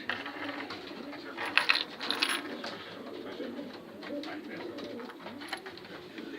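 Pigeons cooing, with wavering low calls throughout, and a short burst of sharp clatters about one and a half seconds in.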